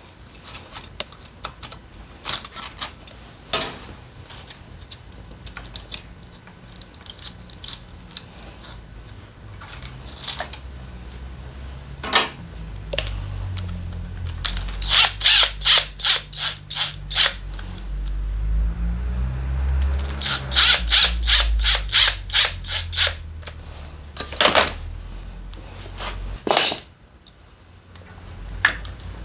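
Hand tools working on a scooter engine during teardown: scattered sharp clicks and knocks of metal on metal, with a quick run of rapid clicks about halfway through and a longer run a few seconds later.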